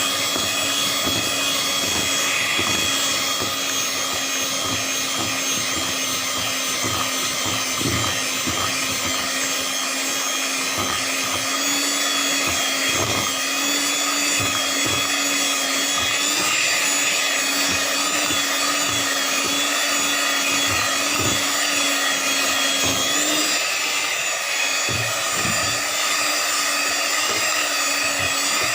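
Electric mixer running steadily while beating cake batter, its hum dipping and rising slightly in pitch a couple of times as the load changes.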